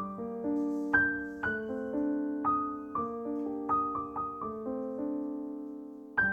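Background piano music: a slow, gentle melody of single struck notes over sustained lower notes, each note dying away.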